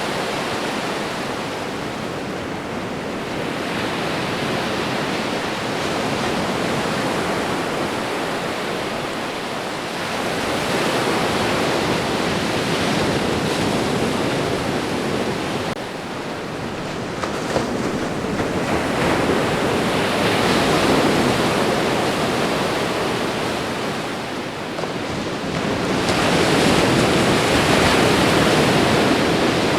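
Ocean waves washing onto a shore: a continuous rush of surf that swells and ebbs as each wave comes in, about four surges over the half-minute.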